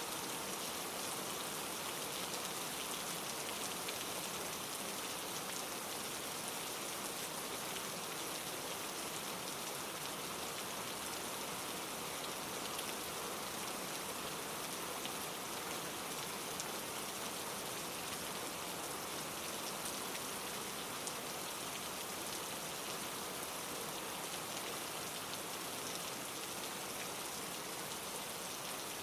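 Steady rain falling on leaves: an even hiss of many drops with faint scattered ticks of single drops, unchanging throughout.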